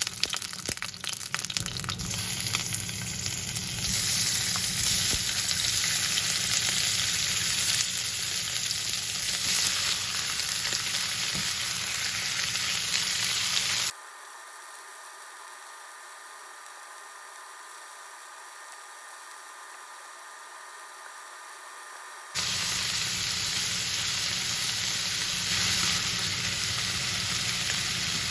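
Food sizzling steadily as it fries in a hot pan. About halfway through, the sizzle turns quieter and thinner for some eight seconds, then comes back at full strength.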